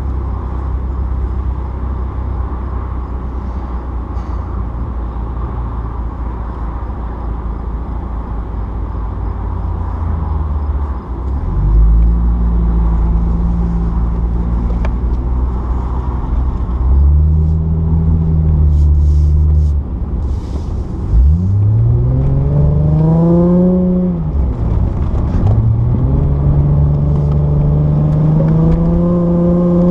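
The Dodge Intrepid's swapped-in 3.5-litre High Output V6 heard from inside the cabin, running with a low steady rumble at first. About a third of the way in the revs rise as the car pulls away. About two-thirds in the revs climb steeply, drop, then rise again near the end under acceleration.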